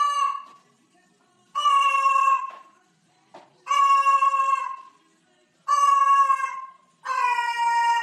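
A cat meowing over and over in long, drawn-out, steady-pitched meows, each about a second long and sagging slightly at the end. One call is ending about half a second in, and four more follow at roughly two-second intervals.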